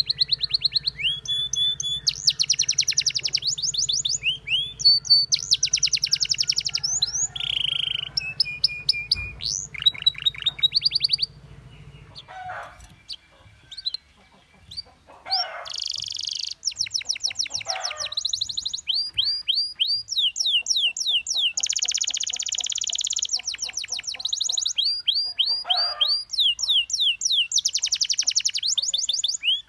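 Canary song: fast rolling trills made of rapid rising chirps, phrase after phrase, breaking off for a few seconds about halfway through and then starting again.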